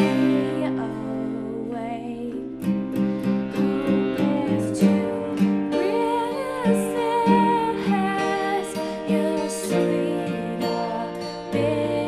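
Live acoustic band music: a strummed guitar with a voice singing over it, starting with a strong attack.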